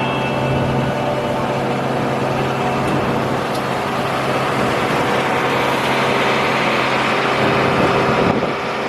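Steady engine noise with a constant low hum, joined by a broad rushing sound that swells through the middle and eases near the end.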